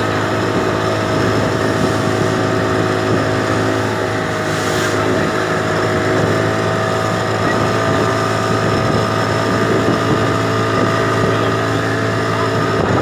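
A boat engine running steadily at constant speed, with a strong low hum and several steady tones over it. A short hiss comes about five seconds in.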